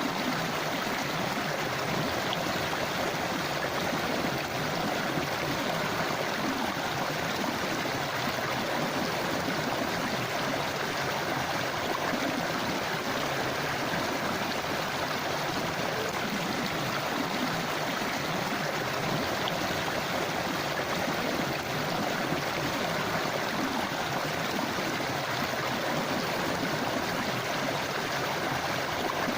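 River water running steadily over stones, a continuous rushing and gurgling.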